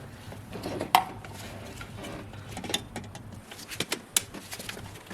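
Scattered light clicks and taps of hands working plastic wiring connectors and clips loose, with a sharper click about a second in and several more near the end.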